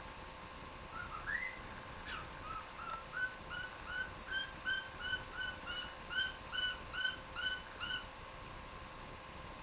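Cockatiel whistling its song: a rising note, then a run of short repeated whistled notes, about two or three a second, that stops near the end.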